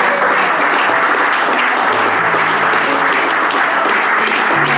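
Sustained applause and clapping from a gathered crowd, with music faintly underneath from about two seconds in.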